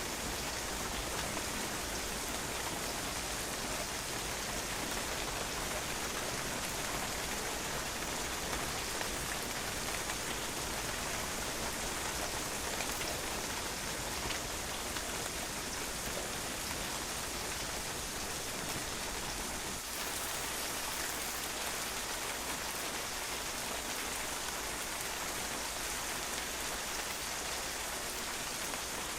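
Steady rain falling on a patio, drops pattering densely and evenly on the hard surface.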